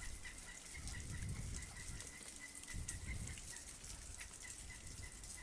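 Faint outdoor ambience: a short high chirp repeating steadily about three to four times a second, with low rumbles underneath.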